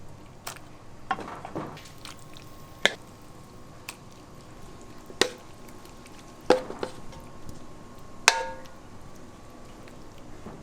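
Scattered sharp knocks and clinks of hard objects, about six over ten seconds, a few with a brief ringing tail, over a faint steady background.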